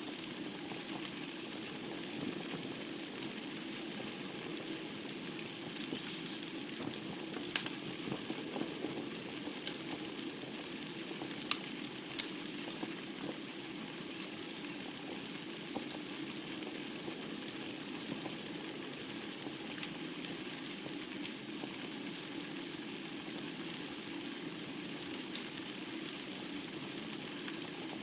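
Wood fire burning in a fireplace: a steady low rush of flames with scattered crackles, and a handful of sharper pops from the logs between about seven and thirteen seconds in.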